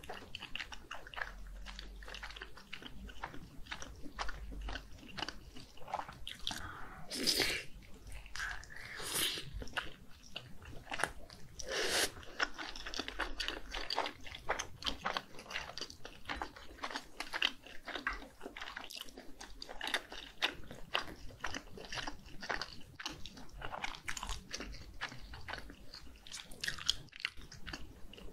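Close-miked chewing of spicy sauce-coated Korean fish cake (eomuk) on a skewer: moist mouth sounds and dense small clicks, with a few louder bites in the first half.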